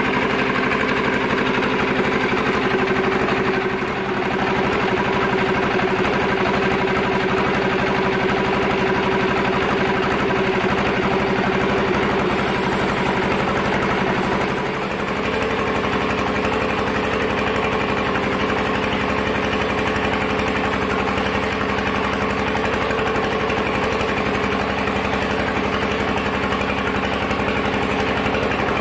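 Sawmill machinery running with a steady drone. Its tone shifts once about halfway through, after a brief dip in loudness.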